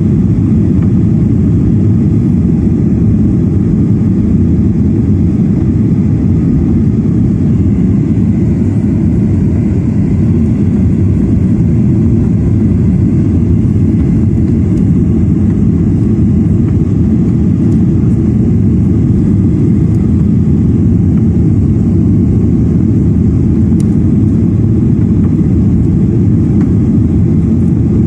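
Airliner cabin noise in flight: a steady low rumble of jet engines and airflow heard from inside the passenger cabin.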